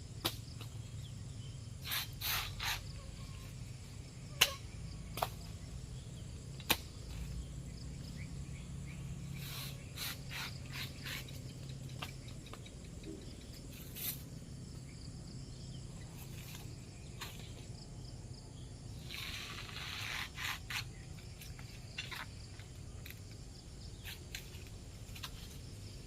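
Outdoor rural ambience: a faint steady background with scattered short, sharp sounds, a low hum through the first half, and a brief hiss around twenty seconds in.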